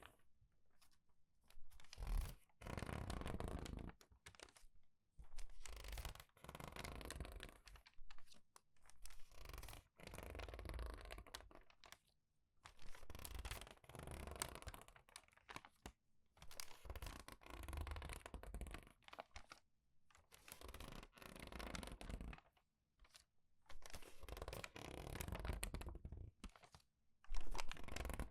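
Crinkled, crumpled paper pages being turned and squeezed in quick succession. Each turn is a crackling rustle lasting about a second, coming every second and a half to two seconds.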